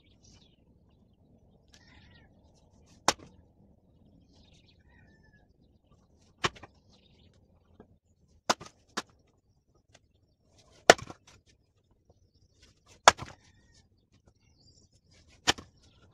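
Sharp single knocks, seven in all and irregularly spaced a second or two apart, the loudest about eleven and thirteen seconds in, with faint bird chirps between them.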